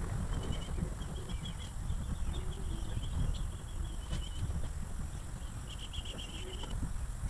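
Outdoor ambience: an animal chirping in short rapid trills, several bursts with the longest near the end, over a constant low rumble.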